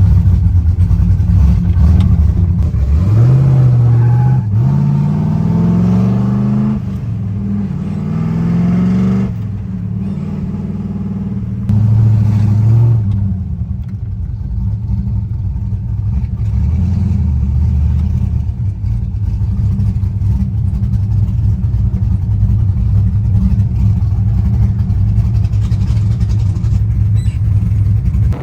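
LS3-swapped Mazda Miata's 6.2-litre V8 driving. Its engine note rises in pitch a few times in the first ten seconds as it accelerates, then settles into a steady low drone at cruise.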